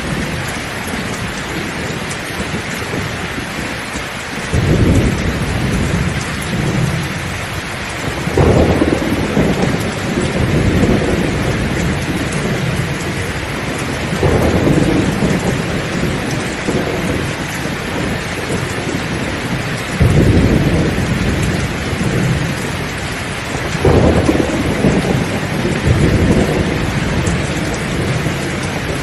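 Heavy rain falling steadily, with deep rolls of thunder rumbling in about five times, every four to six seconds.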